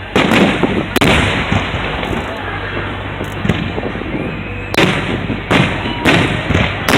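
Aerial fireworks shells bursting: about six loud booms, two close together at the start and four more in quick succession in the second half, with crackling and rumbling between them.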